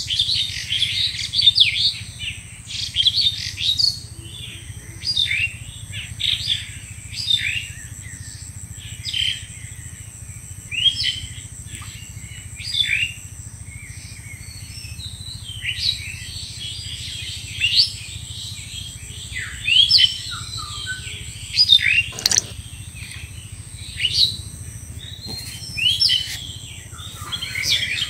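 Wild birds chirping and calling, many short sweeping notes, with one loud phrase repeating about every two seconds through the second half. A faint steady high thin tone runs underneath.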